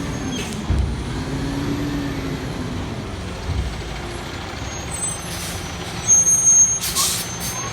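Peterbilt McNeilus front-load garbage truck's diesel engine running, its pitch rising and falling, with a couple of low thumps. A burst of air-brake hiss comes near the end.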